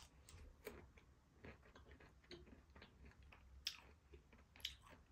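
A person chewing a mouthful of food, faint and close up, with small wet mouth clicks several times a second and two sharper clicks late on.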